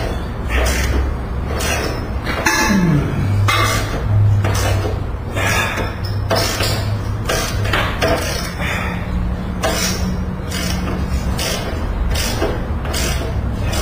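Repeated metallic clinks and clatter, roughly one to two a second, over a low steady hum.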